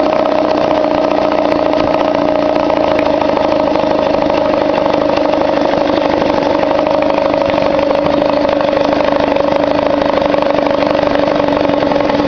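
1953 Mercury Mark 15 two-stroke outboard motor idling steadily and evenly, with no flooding out now that its carburetor float height has been corrected.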